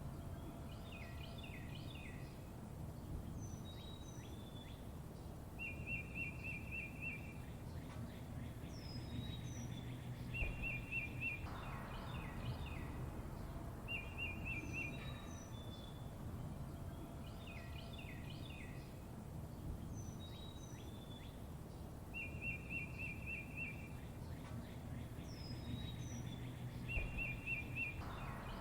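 Songbirds chirping and calling: short high whistles that fall in pitch, clusters of quick chirps, and a rapid trill about a second long that comes back several times, over a low steady rumble. The same stretch of birdsong repeats about every sixteen seconds, as in a looped recording.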